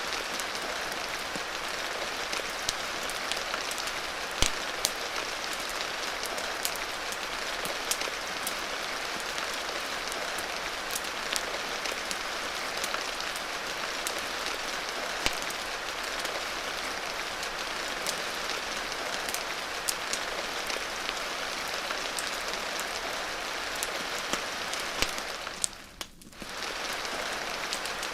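Steady rain ambience, an even hiss dotted with scattered sharp crackles from a fireplace. About two seconds before the end it briefly fades down and comes straight back.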